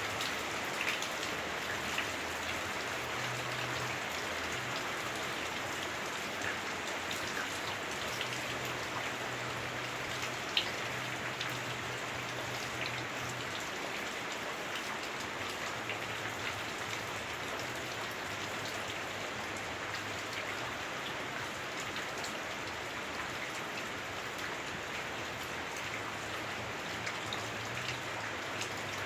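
Heavy rain on a house roof, heard from inside: a steady hiss with scattered drops ticking, and one sharper drip about a third of the way in.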